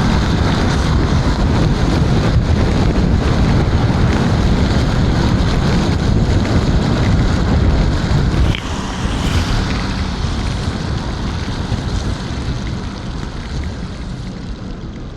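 Wind rushing and buffeting on the microphone while riding an electric scooter through rain, a dense low rumbling noise. It drops suddenly about eight and a half seconds in, then tapers off gradually.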